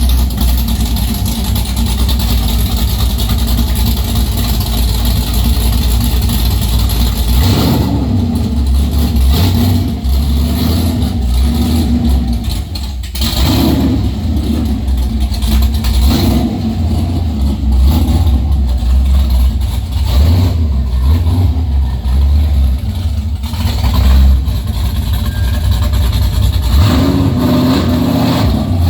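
2005 Pontiac GTO's 6.0-litre LS2 V8 running very loud on a cold start through open headers, with no exhaust behind them. From about eight seconds in the throttle is blipped again and again, each rev rising and falling back to idle.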